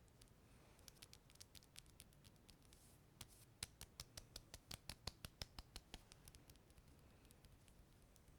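Faint, crisp sticky clicks, like a tacky surface being touched and pulled away, made as ASMR triggers: a quick run of them, thickest in the middle at about four or five a second, sparser before and after.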